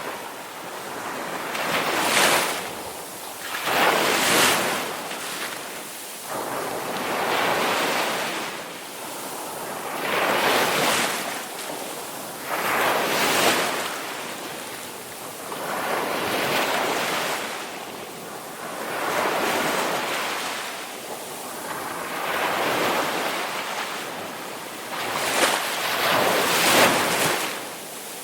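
Ocean waves breaking and washing on a shore, a surge of surf every two seconds or so that rises and falls away.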